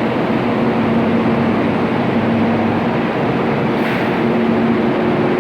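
Kyushu Shinkansen 800-series train running: a steady loud rumble carrying a low electric hum that comes and goes, with a second, higher hum joining about four seconds in.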